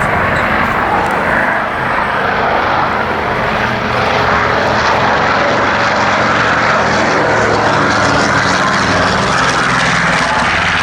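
Propeller aircraft engines running steadily and loudly: a low droning hum over a broad rushing noise.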